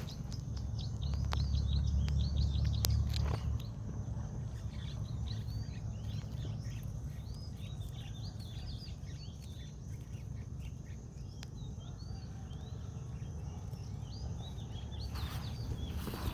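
Many small birds chirping in short, rapid calls, over a low steady rumble that is loudest in the first few seconds.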